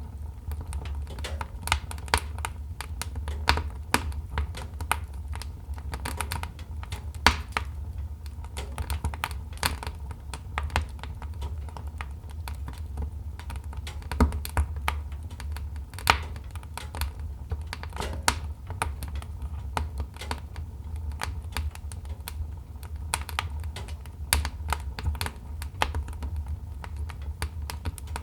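Wood fire crackling: irregular sharp snaps and pops, several a second, over a steady low rumble.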